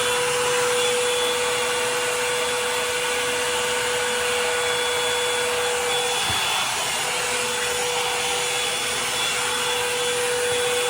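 Revlon hair dryer brush running on its high setting: a steady rush of blown air with a constant motor whine, which wavers briefly about six seconds in.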